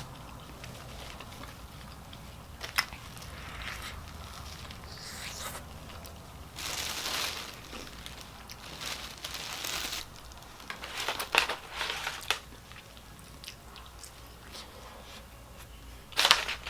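Close-miked eating sounds, bites and chewing of fried chicken and corn, mixed with paper crinkling. They come as several short noisy bursts with quieter stretches between.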